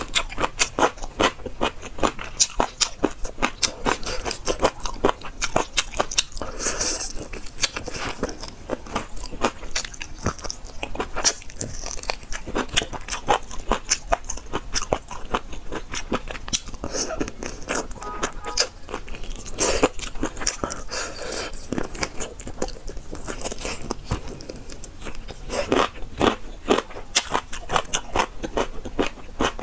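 Close-miked chewing and biting of Sichuan numbing-pepper chicken feet, a dense, irregular run of small wet crunches and clicks as the skin and cartilage are bitten through, with a few louder crunches.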